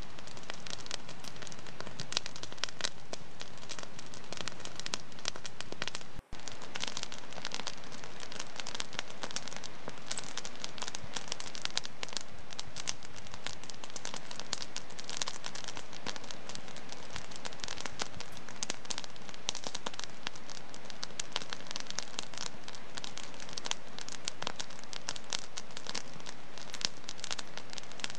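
Wood fire in a fireplace crackling steadily with many small pops, with a brief dropout about six seconds in.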